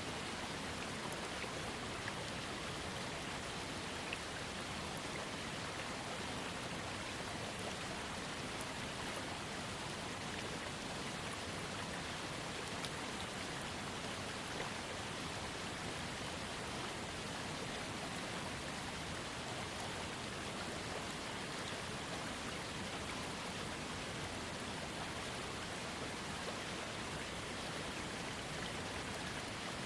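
Small waterfall fed by a trickling creek: a steady, even rush of falling water with tiny splashes and drips scattered through it.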